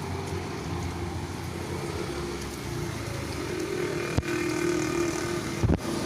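Motor vehicle engine running steadily with a low rumble, with two short knocks, about four seconds in and again near the end.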